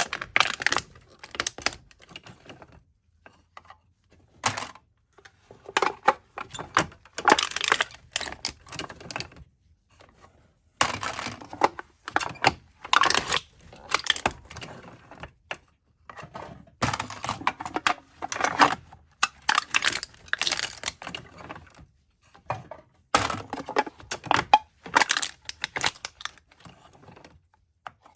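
Aluminium soda cans being crushed: crisp crackling and crunching of thin metal buckling, in repeated bouts of one to several seconds with short pauses between.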